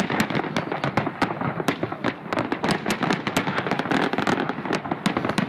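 Fireworks display going off in a dense, continuous barrage of sharp cracks and bangs, many per second.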